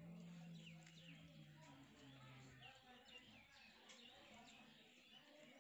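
Near silence, with faint birds chirping in the background in short repeated calls and a faint low hum through the first half.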